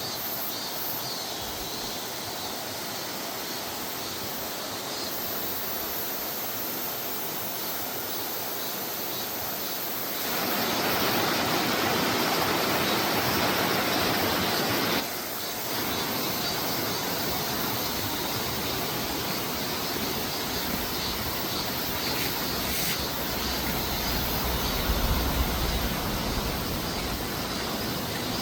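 Mountain stream water rushing in a steady, even roar; it grows louder about ten seconds in and drops back suddenly about five seconds later.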